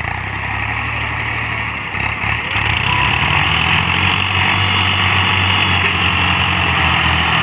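Tractor diesel engine running steadily, getting louder about two and a half seconds in.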